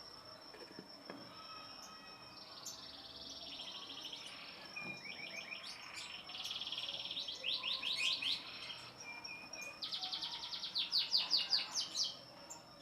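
Lovebird chick calling: rapid trains of raspy chirps in several bouts, loudest near the end.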